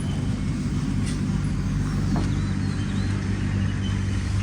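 A motor vehicle's engine running steadily with a low hum, with a couple of faint knocks about one and two seconds in.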